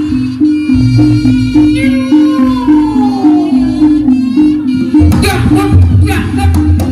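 Reog gamelan accompaniment: a steady ostinato of two alternating gong pitches over drumming, with a melody line that glides downward in the middle and livelier struck accents near the end.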